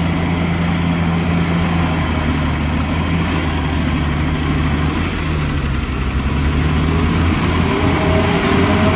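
Heavy diesel engine of an earthmoving machine running steadily, its pitch dipping for a moment about five seconds in and then picking back up.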